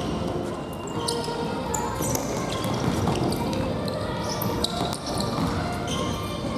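Indoor futsal play: a ball being kicked and bouncing on the gym floor, with short high-pitched squeaks of shoes on the court and players' voices mixed in.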